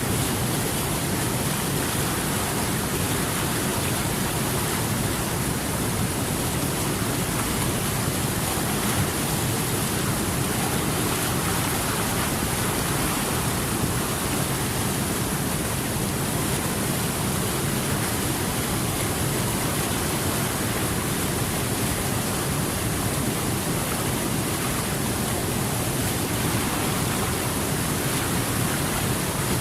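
Steady rushing water, an even hiss with no breaks or single events.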